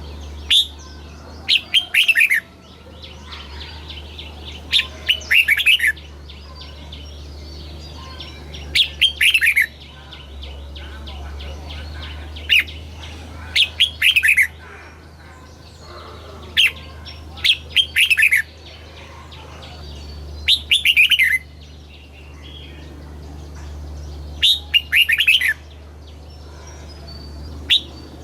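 Red-whiskered bulbul singing: seven short phrases of quick, falling whistled notes, one about every four seconds, over a steady low hum.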